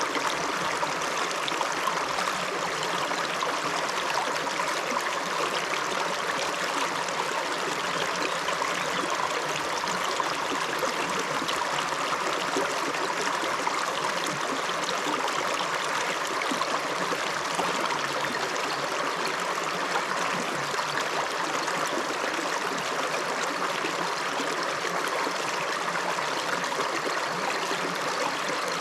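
Shallow river flowing and babbling over stones, a steady rush of water.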